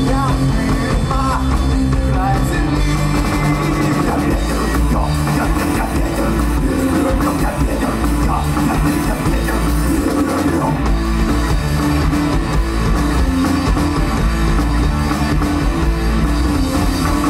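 Rock music with drum kit and guitars, playing continuously.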